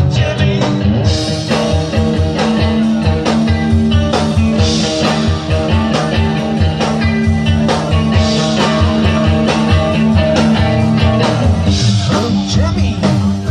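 Live rock band playing a song, with a steady beat in the low end.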